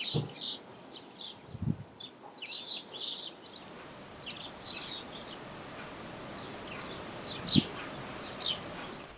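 Small birds chirping and singing in short high phrases throughout, over a faint steady hiss, with two brief low thumps, one about a third of the way in and one near the end.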